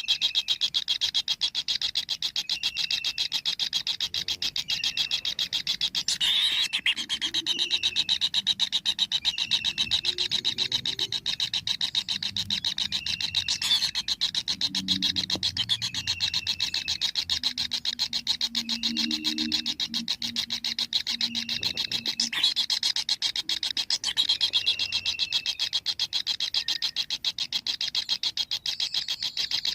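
Kingfisher nestlings begging: a continuous, very rapid rasping buzz, with short chirps repeating every couple of seconds.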